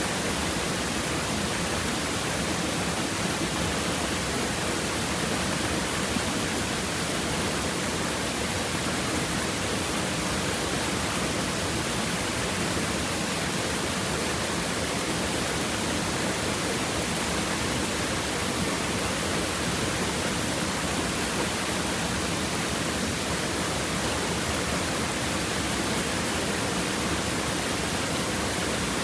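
River water babbling steadily over and between rocks: an even, unbroken rush of water.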